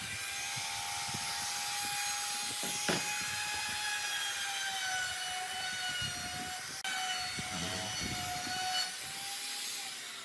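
Electric power tool running steadily with a whine that wavers slightly in pitch over a hissy cutting or sanding noise, briefly dropping out about seven seconds in.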